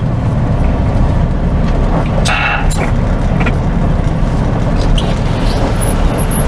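Semi truck's engine and cab running in a steady low rumble while creeping forward at low speed. A brief hiss comes about two seconds in.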